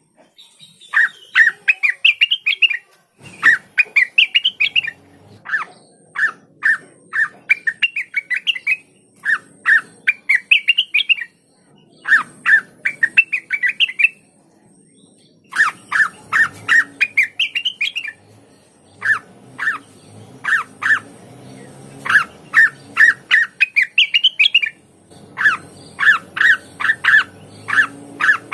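A cucak wilis leafbird singing loud, fast phrases of sharp chirps, each phrase climbing in pitch, repeated over and over with short pauses and one longer pause about halfway through.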